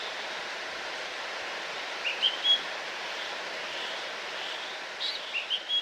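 Steady rush of a waterfall, with a songbird singing a short phrase of quick rising notes that ends on a held whistle, twice: about two seconds in and again near the end.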